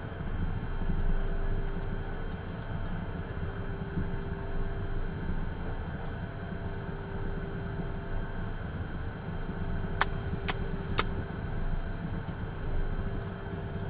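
Steady cockpit noise of a Beechcraft Premier I business jet, its Williams FJ44 turbofans idling: a low hum with a steady whine on top. Three sharp clicks come about ten to eleven seconds in.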